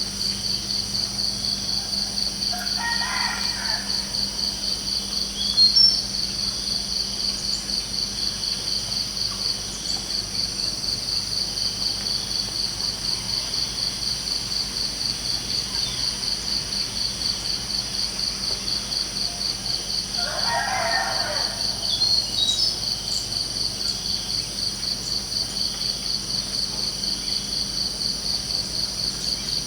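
Crickets chirping in a steady, fast pulsing rhythm throughout, with a distant rooster crowing twice, about 3 seconds in and again about 20 seconds in. A few short bird chirps sound near 6 seconds and near 22 seconds.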